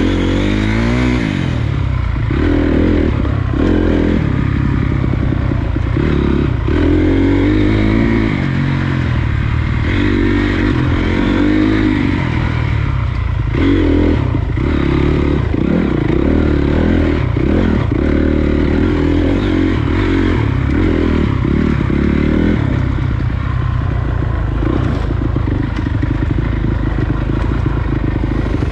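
Honda CRF250 dirt bike's single-cylinder four-stroke engine riding along a trail, its revs rising and falling over and over as the throttle is worked, with knocks and rattles from the bike over rough ground.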